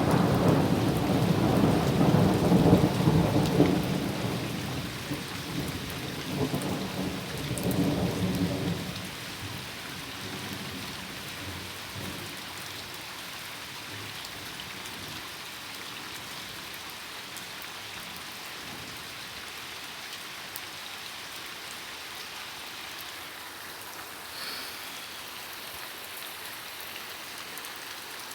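Heavy rain falling steadily, with a long rumble of thunder over the first several seconds that dies away about nine seconds in.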